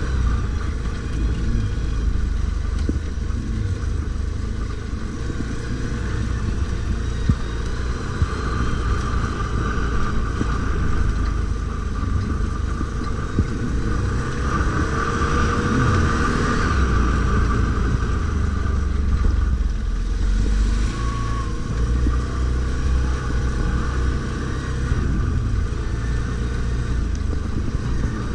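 Stels Guepard 850 ATV engine running continuously while riding off-road, its note rising and falling with the throttle, with a few sharp knocks.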